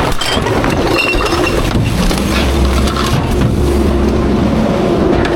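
Garbage truck running loud and steady, with scattered clinks of glass in the load.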